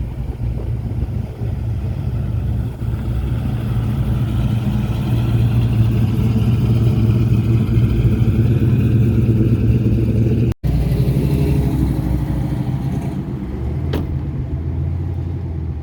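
Car engines running as vehicles drive slowly past, the sound building over several seconds to a loud, steady rumble. It breaks off suddenly about ten seconds in, then another vehicle is heard.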